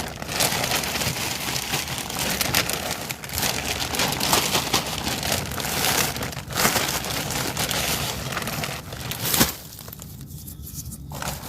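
Soil and pine bark mulch being mixed and scooped by hand in a plastic tote, a continuous crunching and rustling with small cracks. About nine seconds in there is a sharp knock, and the handling goes quieter after it.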